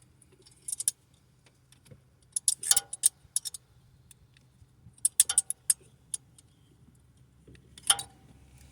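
Metal-on-metal clicks and clinks from hand tools and bolt hardware, in four or five short clusters, as a bolt of an exhaust stud bypass kit is worked into a cast-iron big-block cylinder head. A faint steady low hum runs underneath.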